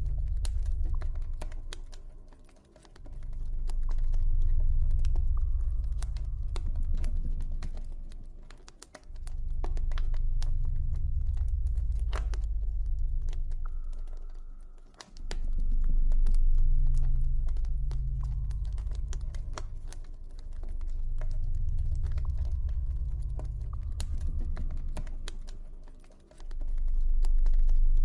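Campfire crackling with frequent sharp pops, over a deep low ambient drone that swells and fades every five or six seconds.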